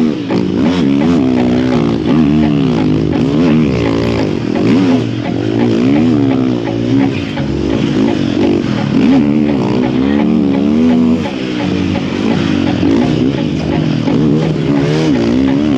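Snow bike engine revving up and down over and over, its pitch rising and falling every second or so as it is ridden around a small track in the snow.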